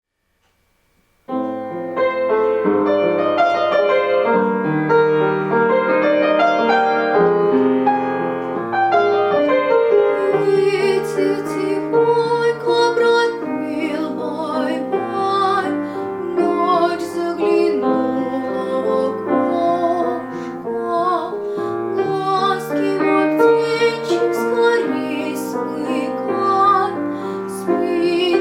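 Piano introduction to a gentle lullaby, starting after a second of silence. About ten seconds in, a young girl's solo voice enters singing the melody over the piano accompaniment.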